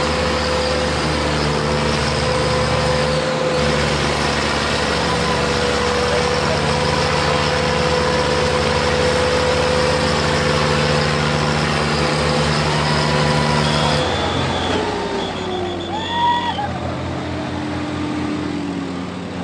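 Diesel tractor engines running steadily under heavy load. About fourteen seconds in the engine sound drops away and short rising and falling shouts or whistles follow.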